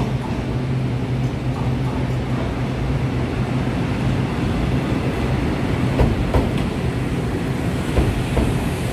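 Taiwan Railways EMU500-series commuter train pulling into the platform at low speed: a steady rumble of wheels and running gear, with a few sharp clicks of wheels over rail joints in the second half.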